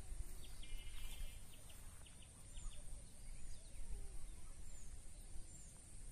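Small birds calling by a village pond: a quick run of short notes about a second in, then brief high falling chirps every second or so. Under them run a steady high hiss and a low rumble.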